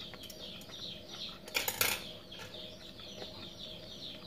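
Birds chirping in the background, a steady run of short falling chirps a few times a second. A brief clatter comes about a second and a half in.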